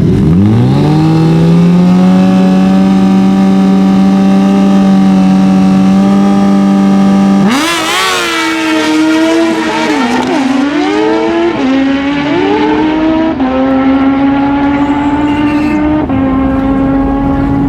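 Naturally aspirated Super Stock drag-racing motorcycles running at full throttle on a pass. The engine note sweeps up sharply at the launch and holds steady and high. About seven seconds in it turns wavering, with the pitch jumping up in steps a few times.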